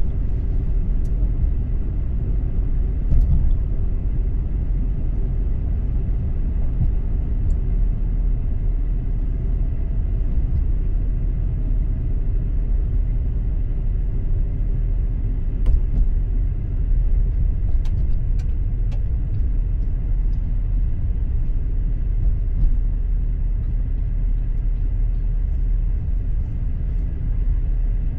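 Car driving at steady speed: a continuous low rumble of road and engine noise, with a few faint clicks.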